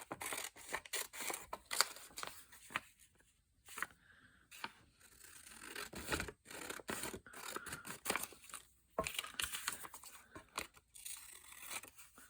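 Paper being handled and cut with scissors: irregular rustling, scraping and short snipping clicks.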